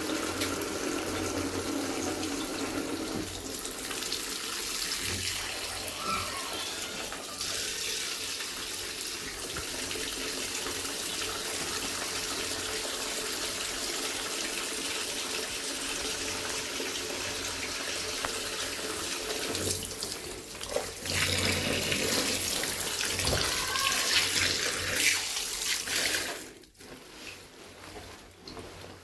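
Water running steadily from a tap, louder for a few seconds near the end, then shut off a couple of seconds before the end.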